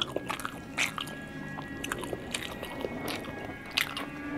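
Close-up chewing of a double cheeseburger, with a few short sharp mouth clicks, over faint background music of steady held tones.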